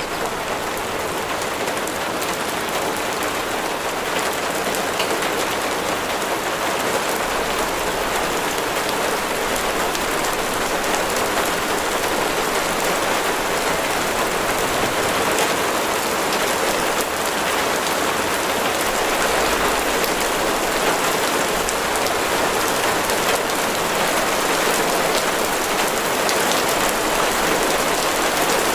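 Steady heavy rain falling, a dense even hiss with countless fine drop ticks.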